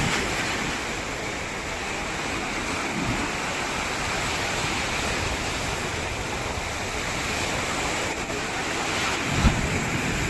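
Ocean surf breaking on a beach: a steady wash of waves, with wind buffeting the microphone in low thumps, the strongest about nine and a half seconds in.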